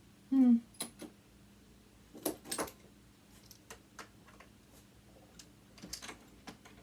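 Small clicks and knocks of metal parts and hand tools being handled while a sewing machine motor is taken apart, with a cluster of taps about two seconds in and another near the end. The loudest sound is a brief pitched squeak about half a second in.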